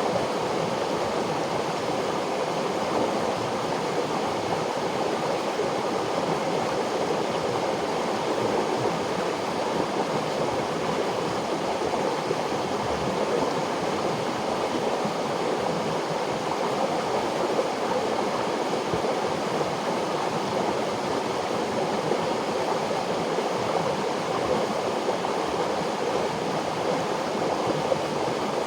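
River water flowing, a steady, even rush of water that does not change.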